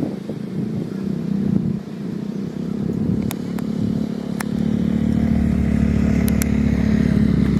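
A vehicle engine running at low revs, its hum growing louder about halfway through, with a few sharp clicks in the middle.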